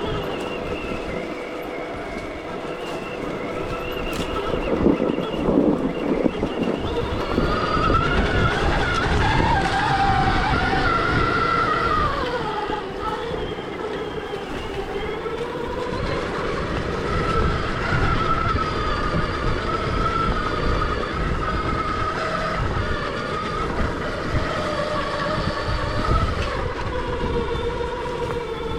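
Stark Varg EX electric dirt bike's motor whining while riding off-road, its pitch rising and falling with the throttle, over a rough rumble of wind and terrain. The whine climbs highest and loudest a third of the way through, then drops.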